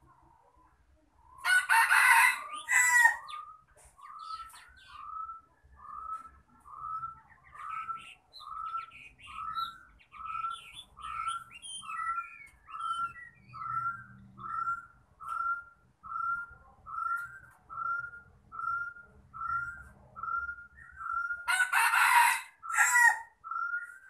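A rooster crows twice, loud, about a second and a half in and again near the end. Between the crows a caged bird repeats a short rising whistled call over and over, about one and a half notes a second.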